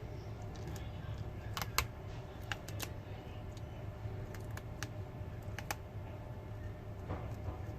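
Scattered light clicks and taps of small repair tools against a smartphone's parts during battery removal, irregularly spaced, over a steady low hum.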